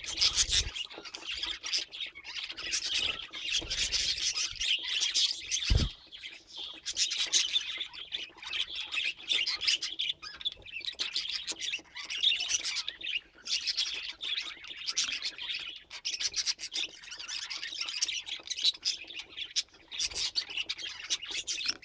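Budgerigars chattering with continuous rapid chirps and squawks, a constant busy warble with no pauses. A single low thump about six seconds in.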